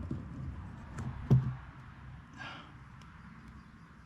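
A few small clicks and a dull knock about a second in from handling a seal-compressing tool and a rubber hydraulic seal, followed by a brief hiss about halfway.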